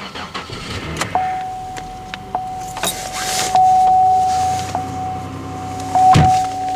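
2008 Pontiac Grand Prix cold start in subzero weather, door open. A steady warning chime comes on about a second in, ticking about once a second, with wind gusting across the microphone. Near the end the engine cranks, catches and settles into a steady run.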